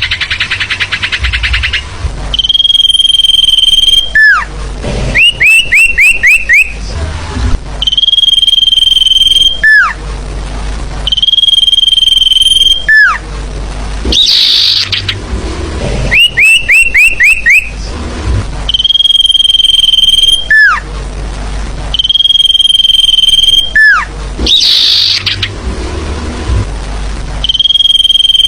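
Bird-lure recording of sirtu calls, repeating in a loop: long steady high whistles, each ending in a falling note, alternate with quick runs of about five rising chirps and short harsh bursts. The cycle repeats every few seconds and is loud throughout.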